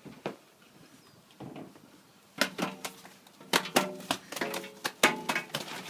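Seagull making a rapid run of short, harsh calls that starts about two seconds in, after a quiet stretch.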